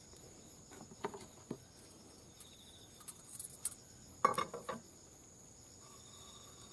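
Metal tools and engine parts clinking and knocking on a workbench: a couple of light clinks about a second in, then a louder cluster of clanks a little past four seconds.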